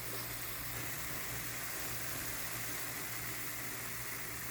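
Beef and vegetables sizzling steadily in a pan as they cook, a continuous even hiss over a low steady hum.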